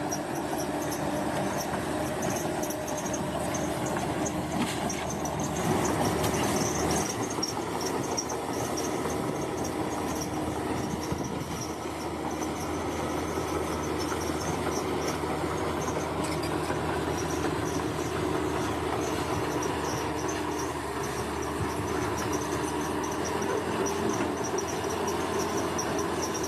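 Heavy earthmoving machinery's diesel engine running steadily, with a high insect chirring over it.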